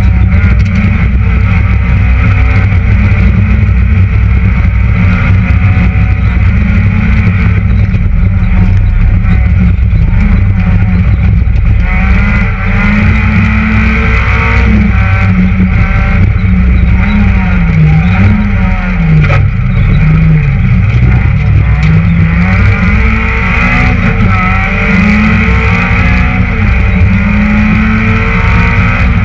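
Citroën Saxo VTS rally car's 1.6-litre four-cylinder engine running hard through the gears, heard from inside the cabin. Its pitch dips and climbs again several times about two-thirds of the way through.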